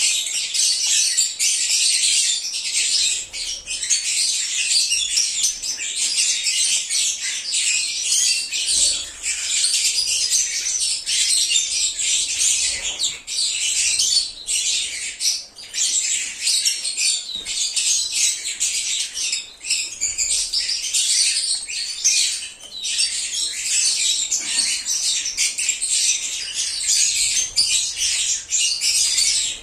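A flock of lovebirds (Agapornis) chattering: a dense, unbroken tangle of high, shrill chirps and squawks from many birds at once.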